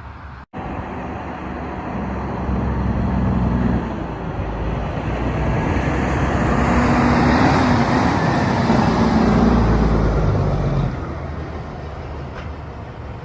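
Big diesel truck engine running loud with a deep, steady drone that builds to a peak and drops off sharply about two seconds before the end, after a brief cut-out about half a second in.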